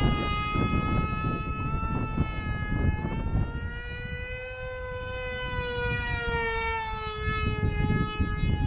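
Small electric RC flying wing's motor and propeller whining loudly and steadily in flight, the pitch wavering a little and dropping near the end as the throttle or distance changes. Wind buffets the microphone with a low rumble underneath.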